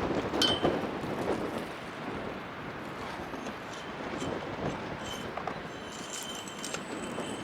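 Metal paint scraper scraping old wax off a skate rail: a rasping scrape with clicks and thin, high squealing tones, briefly near the start and again over the last few seconds.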